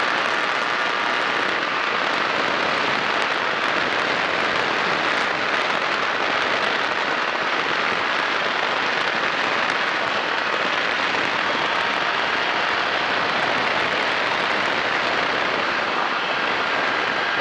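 Kolb Firefly ultralight's engine and propeller running steadily in cruise, heard as a dense, even drone mixed with strong rushing wind noise.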